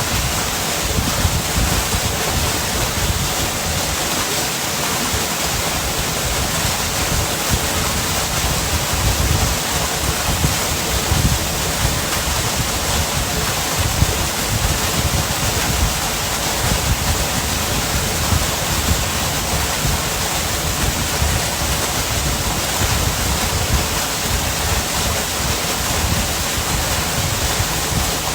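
Steady rushing of a waterfall, with an uneven low rumble underneath.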